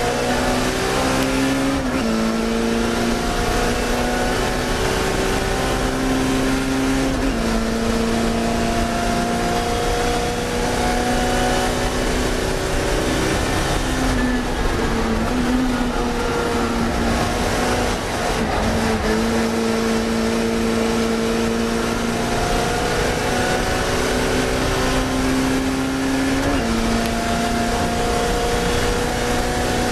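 Classic Mini race car's engine at racing speed. Its pitch climbs steadily under load and drops sharply at each gear change, about five times, over constant wind and road noise.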